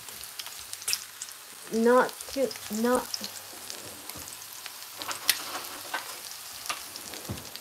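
Pieces of chicken for karaage shallow-frying in a small amount of oil in a frying pan, with a steady sizzle full of fine crackles. A person's voice makes two short rising sounds, about two and three seconds in.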